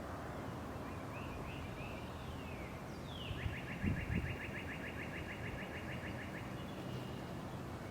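A songbird gives a few short chirps, then a falling note that runs into a rapid, even trill of about seven notes a second lasting some three and a half seconds, over a steady outdoor background hum. A few low thumps, the loudest sounds, come about four seconds in.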